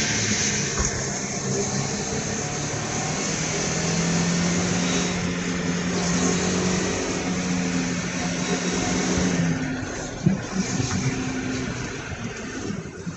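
Mazda Miata's four-cylinder engine running at steady revs under a heavy rush of wind and road noise. The engine note drops away about ten seconds in.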